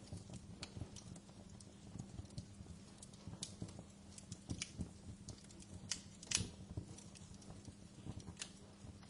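Wood fire in a fireplace crackling, with irregular sharp snaps and pops over a low steady rumble; the loudest pop comes about six seconds in.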